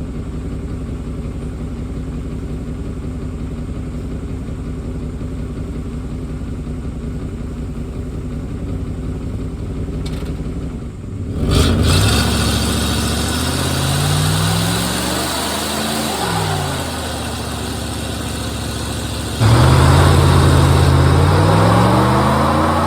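Chevrolet 350 V8 in a 1992 Caprice wagon idling steadily, then revved hard about halfway through, its engine speed climbing and falling, and surging louder again near the end: a high-RPM burnout attempt.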